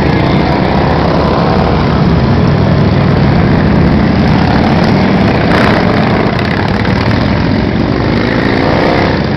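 Many motorcycles riding past together, their engines making a loud, steady din, with the pitch of single bikes sliding as they pass.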